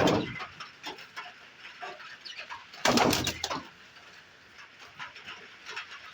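Pigeons shuffling and rustling: scattered scratchy clicks and rustles, with two louder bursts, one at the start and a longer one about three seconds in.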